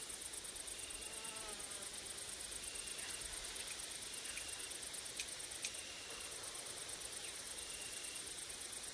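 Grasshoppers and crickets stridulating: a dense, very high-pitched, rapidly pulsing chirr that breaks off briefly a little past the middle, with short high notes repeating about every second and a half. Two sharp clicks come just before the break, and a brief rising buzz sounds about a second in.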